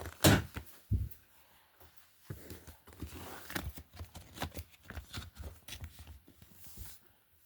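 Hands handling the album's packaging: a couple of knocks in the first second, then several seconds of rustling with small clicks and taps.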